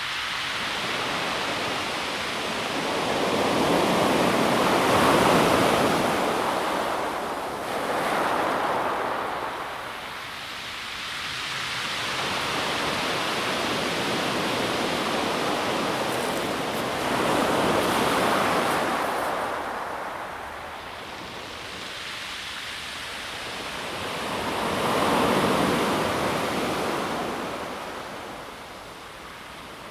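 Calm sea waves washing onto a pebble beach, the surf swelling and fading in slow surges, four times.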